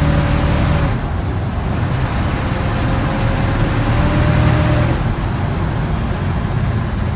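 1955 Chevrolet 3200 truck's recently rebuilt engine running on the move, with road noise. It is louder under throttle at the start and again about four seconds in, and eases off in between.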